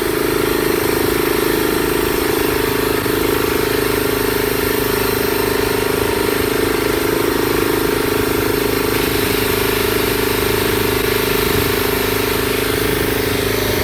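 Small engine running steadily, with an even, unchanging pitch and no revving.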